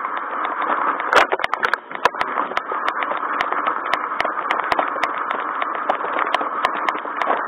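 Rain tapping on an umbrella close to the microphone: many irregular sharp ticks over a steady rushing noise.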